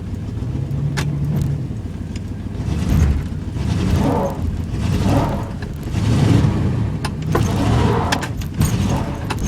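1988 Chevy K1500 pickup's V8 engine revving in repeated surges while the truck is stuck on ice in soft dirt, trying to pull free. A few sharp clicks sound in between.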